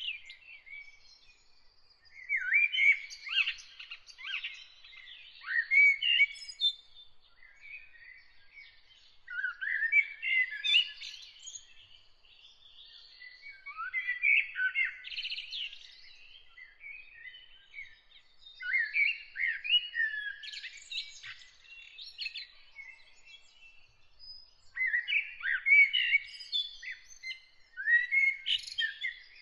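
A songbird singing in varied, warbling phrases of a few seconds each, separated by short pauses, about every four to five seconds. A faint, steady high tone lies underneath.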